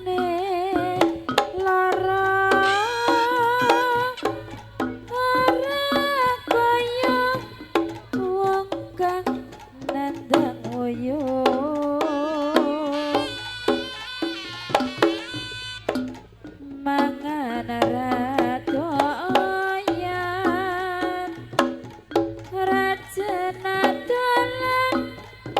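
Live Javanese jaranan campursari music: a singer holding long, wavering notes over frequent hand-drum strokes.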